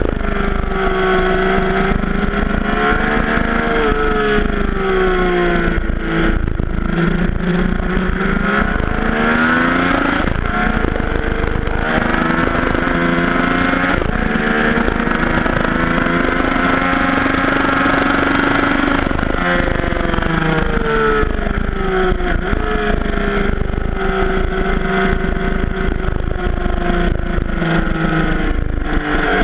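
Yamaha FJ-09's inline three-cylinder engine ridden hard, its pitch climbing with the revs and dropping again several times as the bike speeds up and slows for corners. A low wind rush runs under it.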